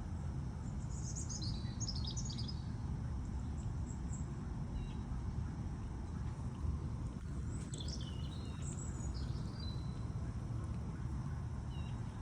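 Bird chirps in two short bouts, about a second in and again past the middle, over a steady low background rumble.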